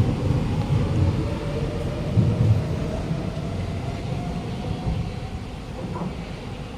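Kawasaki–CRRC Sifang C151C electric train pulling away along the track: a low rumble of wheels and running gear that fades steadily as it recedes.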